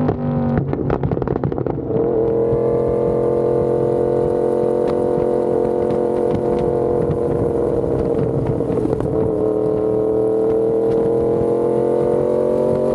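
Yamaha R1M's crossplane inline-four running through an SC Project exhaust while being ridden. About half a second in the engine note drops, followed by a second or so of crackling pops. The engine then pulls steadily, its pitch easing down slightly and rising again after about nine seconds.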